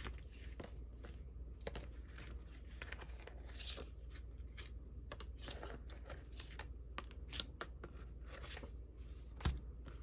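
Vintage paper Valentine cards being handled and shuffled through by hand, with light paper rustling and sliding and a soft thump near the end.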